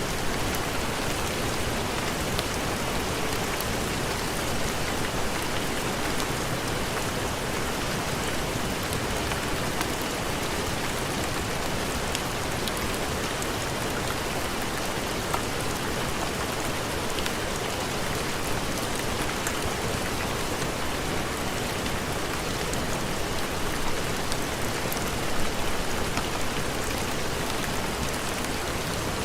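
Steady heavy rain: an even hiss with scattered faint ticks of drops.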